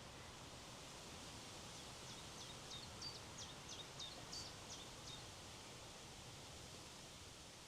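Faint steady wind noise. About two seconds in, a small songbird sings a series of about ten short, high, falling notes, roughly three a second, lasting about three seconds.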